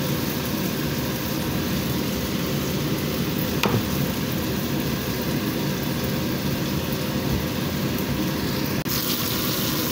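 Chicken pieces frying in oil in a frying pan: a steady sizzle, with one sharp click a few seconds in.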